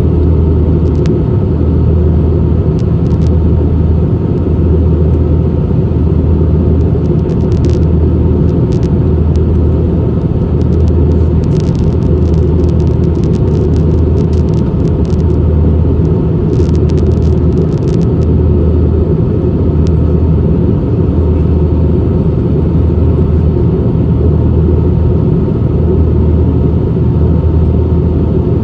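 Steady low cabin rumble of an Airbus A320, engine and airflow noise, with a deep throb that swells and fades about once a second. Light ticks and rattles come and go in the middle.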